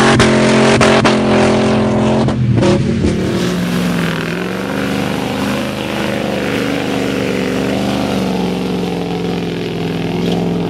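Range Rover P38's 4.6-litre V8 engine working hard off-road. For the first two seconds or so it revs high under a spatter of sharp clicks. After an abrupt change it runs steadier, its pitch rising and dipping gently with the throttle.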